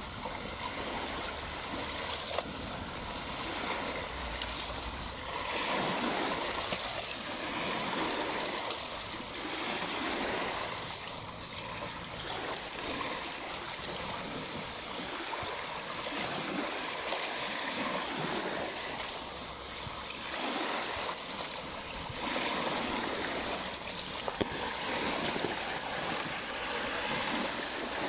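Small waves on a lake washing against the shore, a steady rush of water that swells and ebbs every few seconds.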